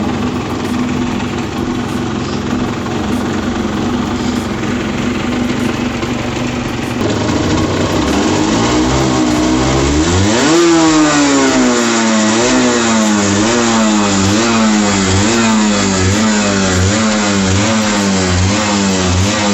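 Motorcycle engine running steadily, then revved: the pitch climbs from about seven seconds in to a peak near the middle, followed by quick, even throttle blips repeating a little more often than once a second.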